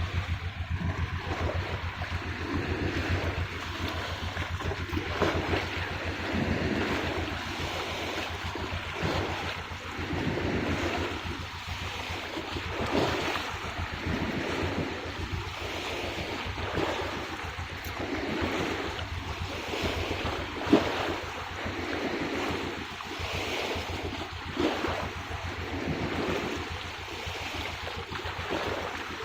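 Ocean surf washing and breaking in continuous surging waves, with wind rumbling on the microphone. One brief sharp crack about two-thirds of the way through.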